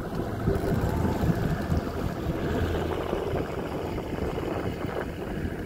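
Steady, uneven low rumble of wind on the microphone, with water noise beneath it.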